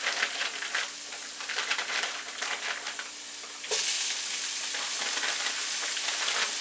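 Food sizzling in a hot frying pan, with a crackle of small pops; about three and a half seconds in the sizzle jumps to a louder, steadier hiss.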